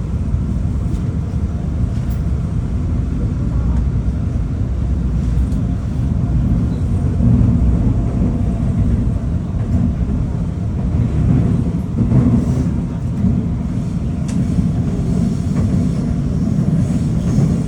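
Seoul subway train running, a steady low rumble with occasional faint clicks and rattles.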